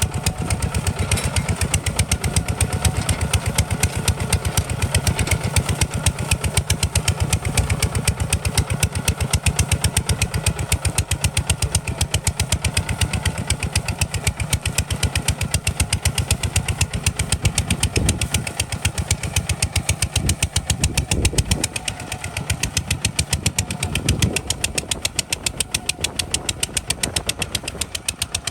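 Kubota RT 140 DI single-cylinder diesel engine running steadily under load with a rapid, even firing beat. A few heavier low thuds come in the second half, and the engine gets slightly quieter near the end.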